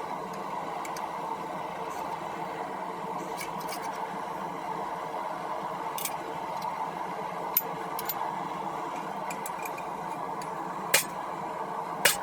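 Blacksmith's forge running with a steady hum, broken by a few sharp clicks in the second half, the loudest near the end.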